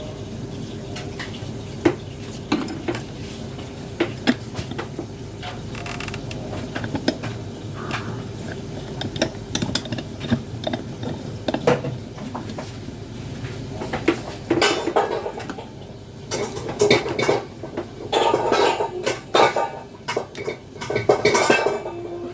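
Small hard parts and tools clinking and clattering as they are handled during a toy repair: scattered clicks at first, getting much busier in the second half.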